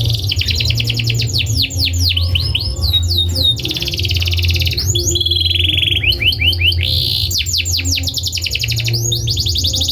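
Domestic canary singing: fast rolling trills of rapidly repeated notes that change from one run to the next, with short pauses between runs, over a steady low hum.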